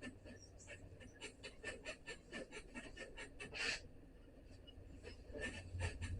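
Faint, irregular scratching and small clicks, a few a second, of hands working over a sheet-metal door panel; a low hum comes up near the end.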